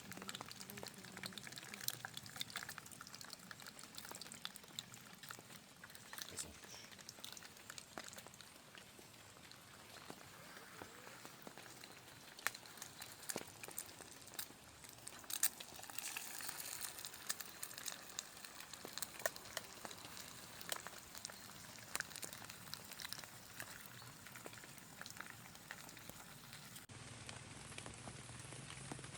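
Eggs frying in a pan, sizzling steadily with frequent sharp pops and crackles. About 27 seconds in, this gives way abruptly to a different, steadier background.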